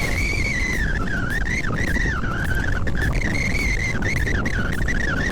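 Heavy machinery running with a steady low rumble, under a high whine that wavers up and down in pitch.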